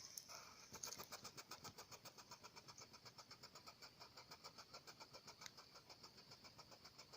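Hedgehog making a faint, fast, even train of soft ticks, about eight a second, starting about a second in.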